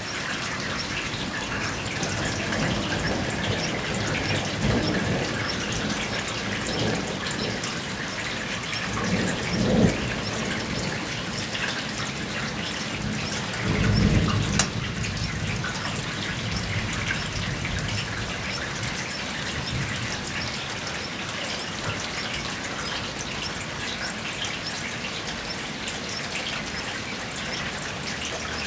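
Steady thunderstorm rain pattering on the ground, a dense hiss of fine drop ticks. Two short low rumbles stand out, about a third of the way in and near the middle.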